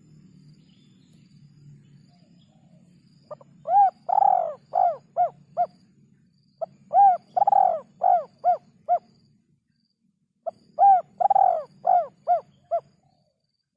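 Spotted dove cooing: three phrases of six or seven repeated coo notes each, about three to four seconds apart.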